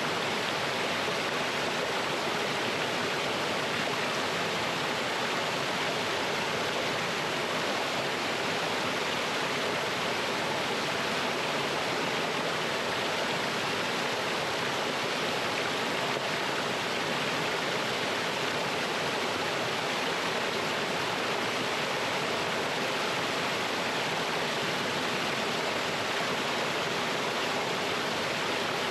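Mountain stream running and splashing over rocks in a small waterfall, a steady unbroken rush of water.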